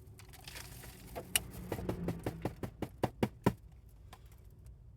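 A quick run of light clicks and knocks, like small objects being handled and set down, coming closer together and stopping about three and a half seconds in, over a low steady hum.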